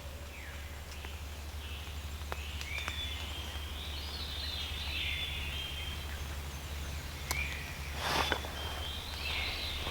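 Faint songbirds chirping and trilling in the woods over a steady low rumble of background noise, with a few sharp clicks and a brief rustle about eight seconds in.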